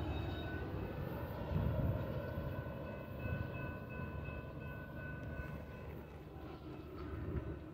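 Low rumble of a double-stack intermodal freight train's last cars rolling away on the rails, slowly fading, with faint high steady tones over it.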